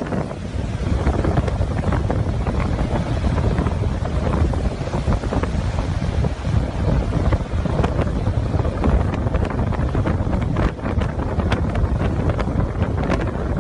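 Hurricane wind buffeting the microphone in a steady heavy rumble, with storm-surge waves washing beneath it and scattered sharp knocks and cracks in the second half.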